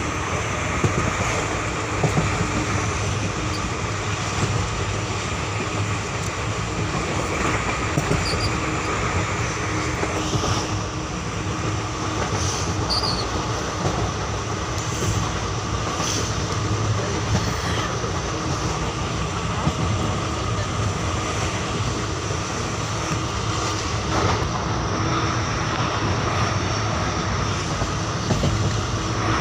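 Indian express train running at speed, heard from on board: a steady rumble of wheels on rail, with scattered clicks as the wheels pass over rail joints every few seconds.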